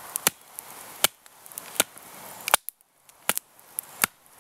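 Bear Grylls Ultimate Survival Knife being struck through a piece of wood to split it: six sharp knocks at an even pace, about one every three quarters of a second.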